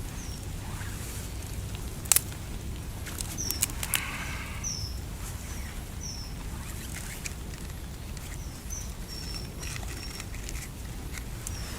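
Wild geese honking a few times, with short high chirps of a small bird, over a steady hiss of rain; a few sharp clicks, the loudest about two seconds in.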